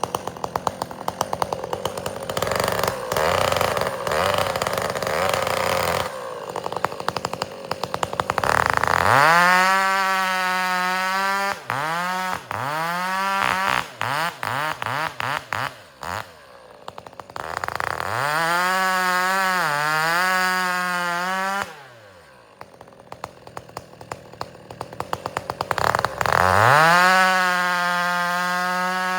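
Two-stroke chainsaw bucking firewood, revving hard and cutting, with choppy, uneven running between cuts. Its pitch climbs steeply as it revs up about a third of the way in and again near the end, and it drops back to a lower, quieter run for a few seconds in between.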